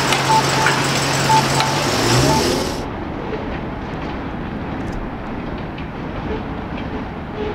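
Sounds of a train at a railroad grade crossing: a steady low engine drone with a crossing bell ringing over it, both ending about two seconds in. Just under three seconds in the sound changes abruptly to a quieter rumble of a train rolling past.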